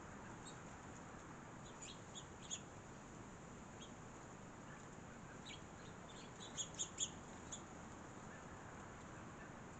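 Small songbirds chirping: a few short, high chirps about two seconds in and a louder quick cluster of chirps around seven seconds in, over a steady background hiss.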